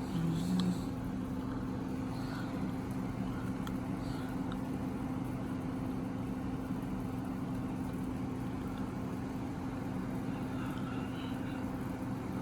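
Window air conditioners running: a steady mechanical hum with a constant low tone, and a brief louder tone about half a second in.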